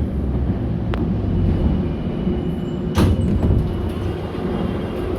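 Inside a metro car of an 81-717.6 train standing at a station: a steady rumble and hum from the car, with a sharp click about a second in and a louder clunk about three seconds in.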